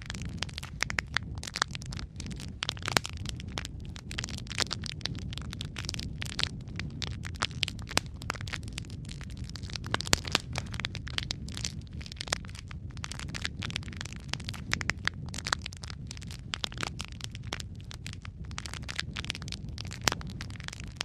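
Wood fire burning in a fireplace: a steady low rumble of flame under dense, irregular crackles and pops, with a few louder snaps.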